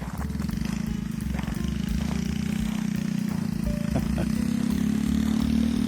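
Mini bike engine running steadily.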